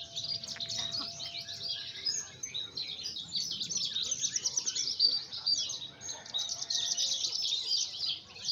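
Javan bush lark (branjangan) singing a fast, unbroken stream of high chirps and short trills.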